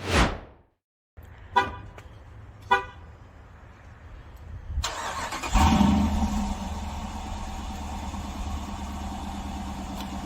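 A quick whoosh, then two short car-horn toots, then a car engine starting about five seconds in and running steadily.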